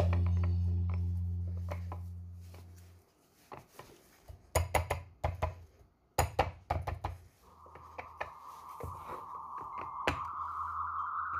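Background music fading out, then a run of sharp clicks and knocks. About two-thirds of the way in, a steady whirring hum starts and slowly rises in pitch.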